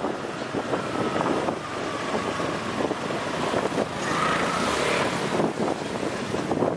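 Wind buffeting the microphone of a riding motorbike, over engine and road-traffic noise.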